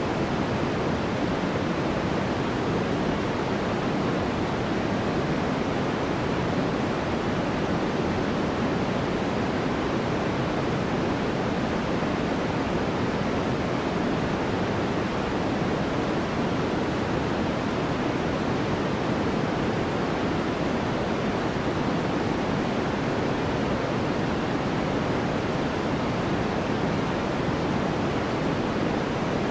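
Steady sleep-aid noise track: an even, unchanging hiss that sounds deeper and softer than pure white noise, with little top end.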